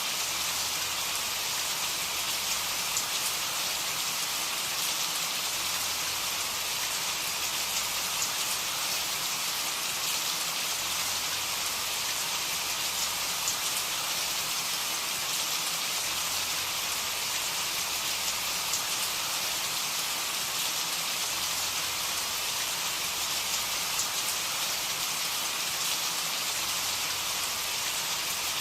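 Steady rain falling, an even hiss with scattered drop ticks, no thunder.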